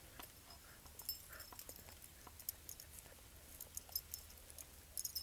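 Dogs moving about: faint, irregular light clicks and patter.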